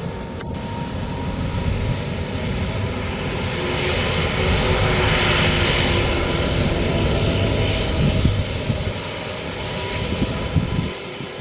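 Jet engine noise from an Airbus A350-900's Rolls-Royce Trent XWB engines. The roar builds to a peak about halfway through and then fades, as the airliner passes.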